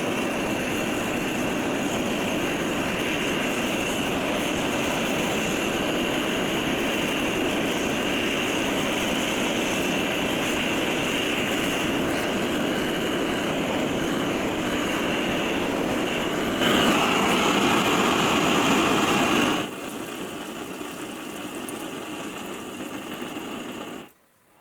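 A power tool running steadily on the steel of a saw-blade knife blank, with a constant whir. About two-thirds of the way in it gets louder for about three seconds, then runs quieter and stops abruptly just before the end.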